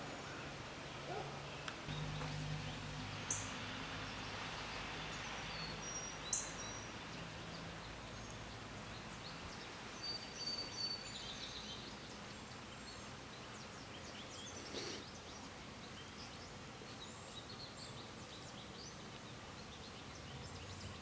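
Scattered high songbird chirps and calls over quiet outdoor background noise, with a faint low steady hum for the first several seconds.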